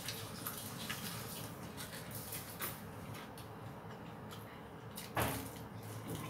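Eating sounds of a person chewing chicken picked up by hand: soft wet smacks and small clicks from the mouth, with one louder, sharper sound about five seconds in.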